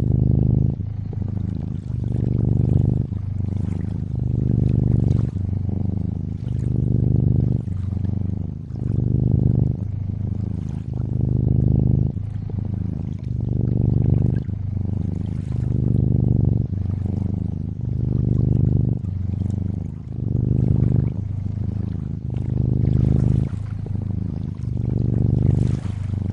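A cat purring in slow, even swells about every two seconds, each breath in and out, over gentle trickling lake water.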